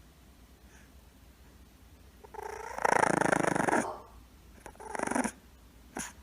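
A pet animal's rough, growling call starting about two seconds in and lasting under two seconds, followed by a shorter one about five seconds in and a sharp click near the end.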